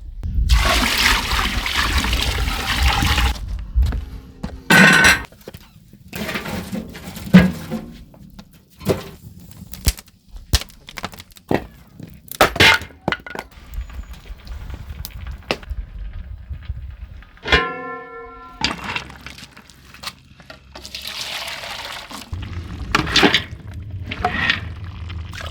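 Cooking work with water: a rush of pouring or gushing water, then a string of sharp knocks and clatters, a brief squeal about two-thirds through, and water gushing again near the end.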